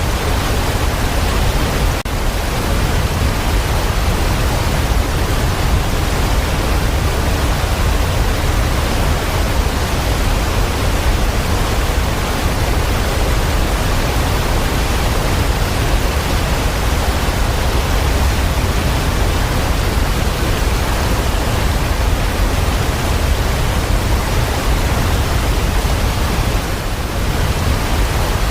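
Steady heavy rain: a dense, unbroken hiss with a deep rumble underneath, dipping slightly for a moment near the end.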